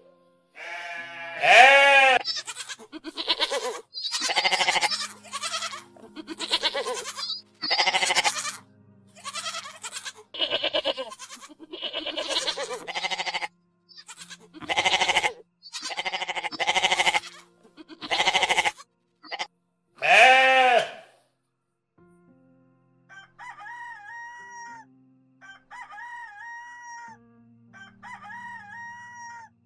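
Goats bleating over and over, many loud calls of about half a second to a second each, overlapping one after another for about twenty seconds. After a short pause, a rooster calls several times, fainter and shorter, each call rising and falling.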